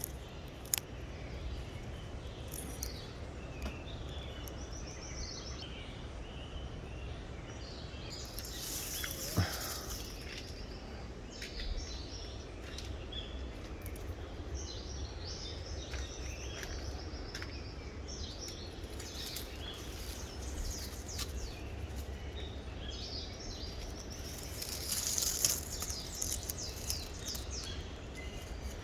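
Outdoor nature ambience: birds and insects chirping on and off over a low steady background noise. The chirping thickens into busier bursts about eight seconds in and again near the end.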